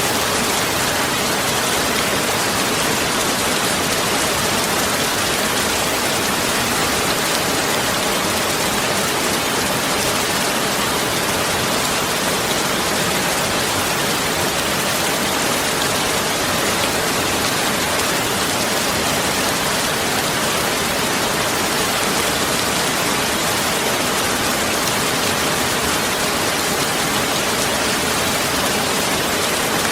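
Heavy rain falling steadily, an even hiss with no single drops or other events standing out.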